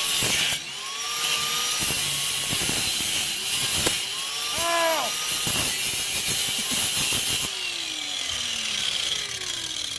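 Power cutting tool biting into a steel exhaust pipe: a harsh, steady hiss with the motor's pitch rising and falling under load. About three-quarters of the way through, the hiss drops and a lower tone slides steadily down.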